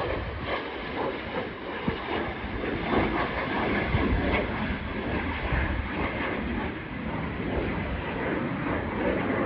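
Aircraft engines at takeoff power during the takeoff run: a steady, loud rumble with a crackling edge.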